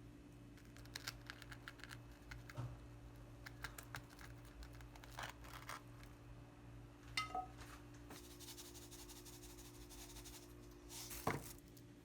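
Quiet clicks and taps of small objects being handled, with a brief ringing clink about seven seconds in and a sharper knock near the end, over a low steady hum.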